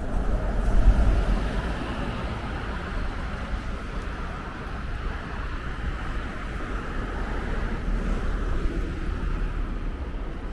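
Street traffic going by, with a tyre-and-engine hiss through the middle, and wind buffeting the microphone in a low rumble that is loudest about a second in.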